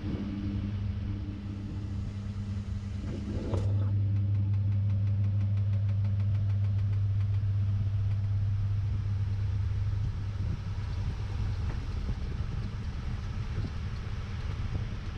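Samsung top-load washing machine's motor humming steadily, heard from inside the drum. A brief knock comes about three and a half seconds in, after which the hum grows louder and holds steady, with a faint rising whine above it.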